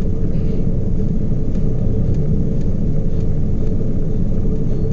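Steady low rumble of a ship's engines and machinery, with a faint steady hum running through it.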